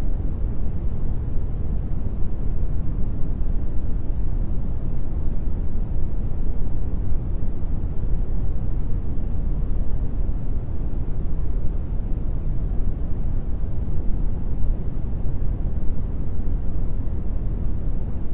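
Steady brown noise: an even, deep rumble heaviest in the bass, unchanging throughout, with no tones or events.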